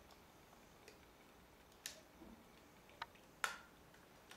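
A few short, sharp clicks of hard plastic Lego pieces being handled and pressed together, the loudest near the end, with near silence between them.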